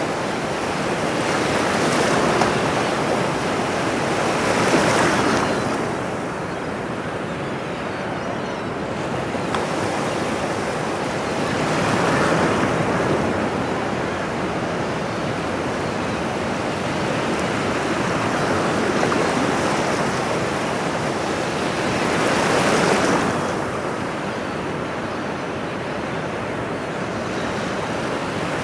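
Ocean surf: a steady rush of water with waves breaking and swelling louder every several seconds.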